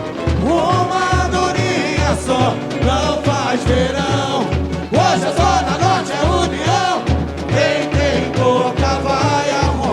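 Samba-enredo sung by voices over a samba school drum section, the bass drums keeping a steady, even pulse.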